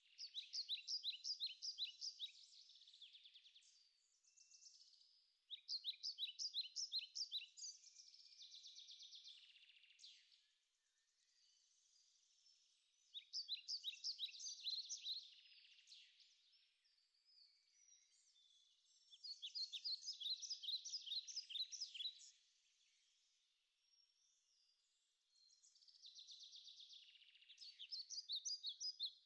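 A songbird singing the same high song over and over, five phrases about six seconds apart. Each is a quick run of repeated notes trailing off into a softer tail.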